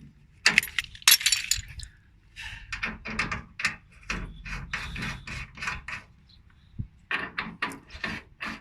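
Small metal clinks and knocks: two sharp ones about a second in, then a run of light, quick ticks and scrapes as metal valve caps and a wrench are handled and threaded on an air conditioner's service valves.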